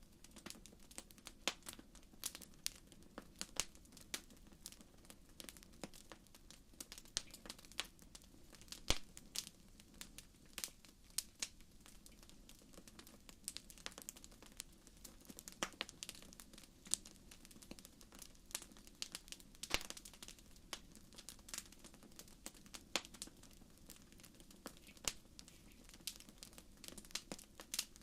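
Wood fire burning in a fireplace, crackling with irregular sharp pops and snaps over a faint low hiss.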